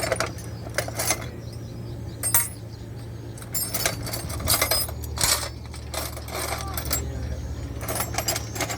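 Repeated short metallic clinks and taps, like tools and metal parts being handled, over a steady low engine hum.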